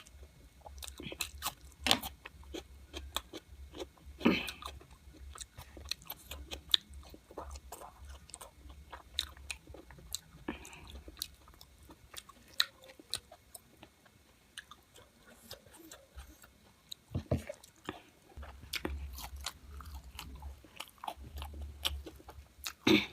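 Close-miked chewing and biting of cooked local chicken, with irregular crunches and sharp clicks of the mouth and food.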